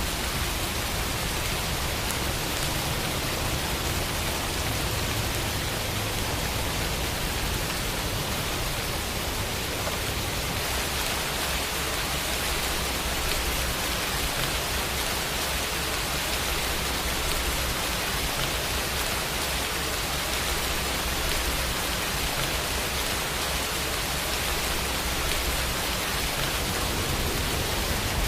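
Steady rain falling, an even hiss of drops without distinct strikes or other sounds.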